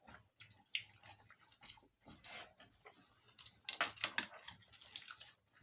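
Eating sounds: scattered clicks of a utensil on a plate with wet mouth sounds from chewing, loudest about four seconds in.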